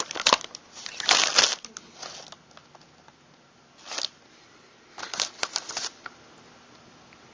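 Metal parts of a Mossberg 600 pump shotgun clicking and rattling as they are handled during disassembly, with a retaining pin being pushed out. The clicks come in several short clusters over the first six seconds, the loudest about a second in.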